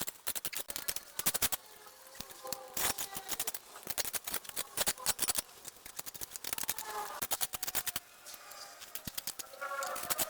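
Hand shears snipping through vines and brush: rapid runs of sharp clicks and snips with short pauses between.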